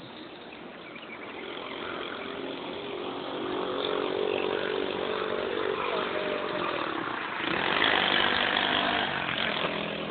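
An engine running steadily, getting louder over the first few seconds and loudest about eight seconds in.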